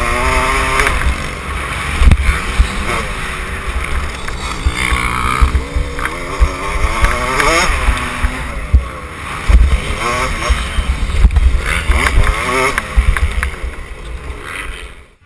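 Dirt bike engine revving, its pitch climbing and falling again and again as the bike accelerates and shifts, with wind buffeting the microphone.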